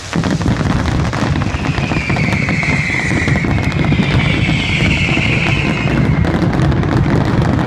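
Dense barrage of aerial fireworks: rapid overlapping bangs and crackling over a continuous rumble, with a bright crackling hiss swelling for a few seconds in the middle.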